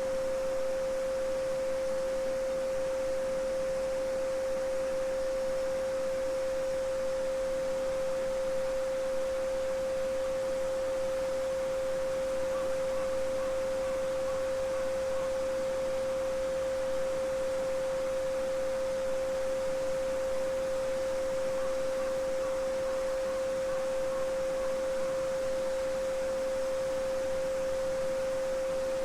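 A steady 528 Hz pure sine tone (the solfeggio frequency) holding one unchanging pitch, with a faint babbling brook beneath it.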